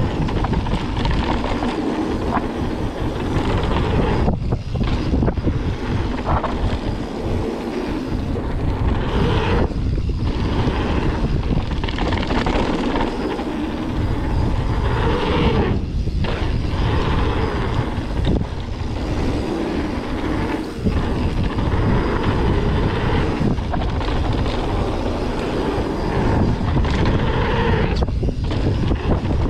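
Mountain bike riding down a dirt trail at speed: steady rush of wind on the microphone mixed with the rumble of the tyres, dipping briefly now and then.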